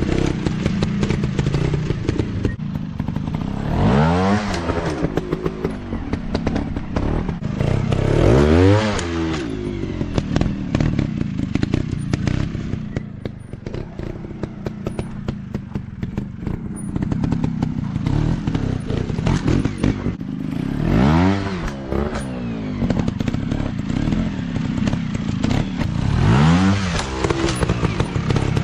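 Dirt bike engines running at low revs and revved up and back down four times, each rise and fall lasting about a second, over a steady engine drone.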